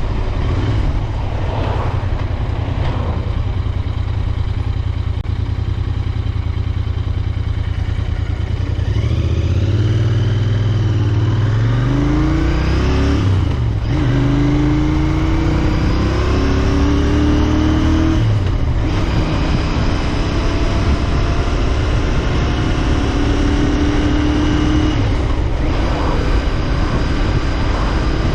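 Royal Enfield Interceptor 650's parallel-twin engine running steadily under way, then revving up through the gears, with brief breaks at two shifts about 14 and 18 seconds in, before settling into a steady cruise with road and wind noise.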